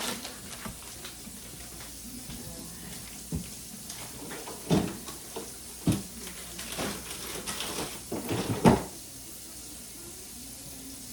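Household items being handled and set down: a scattered series of short knocks and clatters, the loudest one near the end, over a steady low hum.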